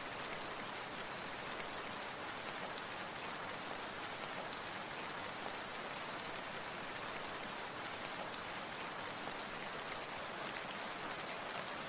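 Steady rainfall: an even hiss of drops with no separate splashes, pauses or changes.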